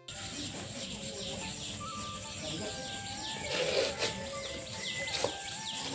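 Birds chirping repeatedly in quick, falling calls over a steady background hiss, with a couple of light clicks.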